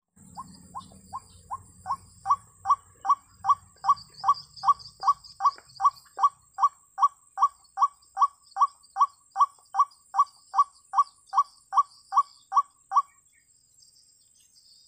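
White-breasted waterhen (ruak-ruak) calling: a long run of about thirty short, identical notes, about two and a half a second, growing louder over the first two seconds and then steady, stopping shortly before the end. A faint steady high-pitched tone runs underneath.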